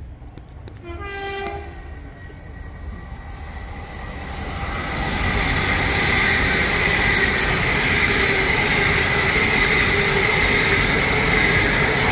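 A train's horn gives one short single-note blast about a second in. Then a train comes into the station, growing loud over a few seconds and staying loud, with a steady high tone over its rumble.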